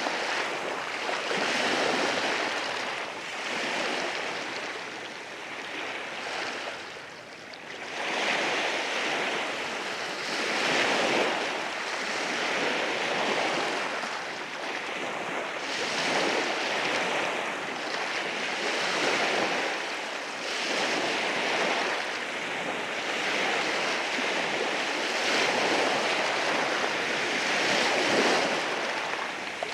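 Sea waves rolling in and washing over rocks on a rocky shore, a continuous surging hiss that swells and ebbs every few seconds, with a brief lull a little after five seconds in.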